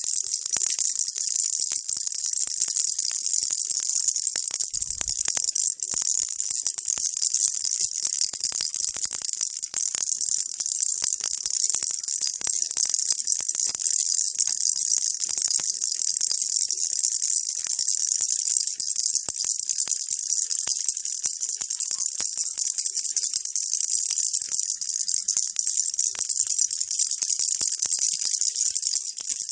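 Baby rattle shaken continuously, a dense, steady stream of fine rattling clicks, played as a white-noise soother.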